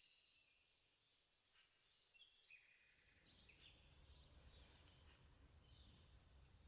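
Near silence: faint outdoor ambience with scattered small bird chirps and a faint low rumble.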